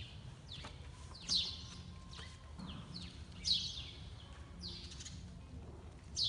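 A small bird calling repeatedly: short high notes that slide quickly downward in pitch, the clearest about every two seconds, over a faint low steady hum.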